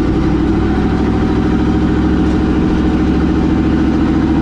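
Race truck engine idling steadily, loud and close.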